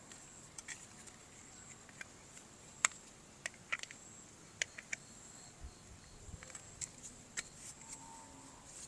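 Light, irregular clicks and taps of plastic toy parts and packaging being handled during an unboxing, a dozen or so sharp ticks with the loudest a little under 3 s in.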